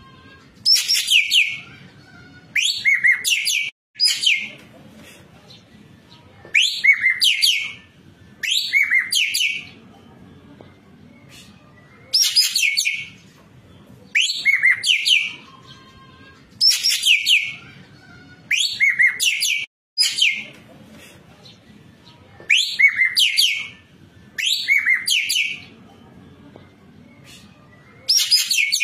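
Ekek keling bird calling in loud, shrill bursts of chattering notes, each about a second long. The bursts come mostly in pairs about two seconds apart, with longer pauses between the pairs.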